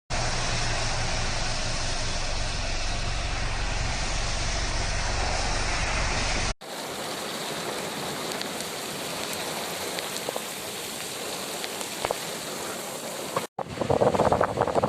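Heavy rain pouring, a steady hiss with scattered drop ticks. It comes in two separate recordings that cut about six and a half seconds in, and a louder, more uneven clip begins near the end.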